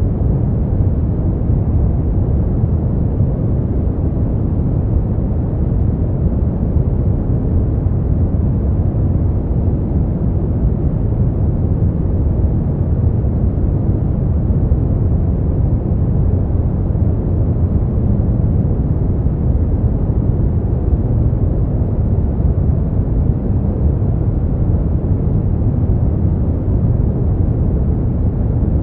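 Steady sleep noise track: an even, deep rushing noise weighted toward the low end, with nothing changing or standing out.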